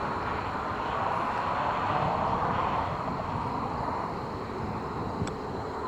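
An aircraft drone passing overhead, swelling around two seconds in and then easing off, with a faint single click about five seconds in.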